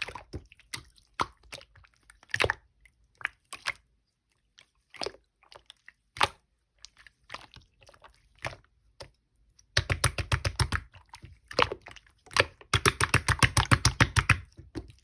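Hands working a soft shaving-foam slime, making scattered sticky pops and clicks. About ten seconds in, and again near the end, pressing the slime gives stretches of rapid crackling air-bubble pops.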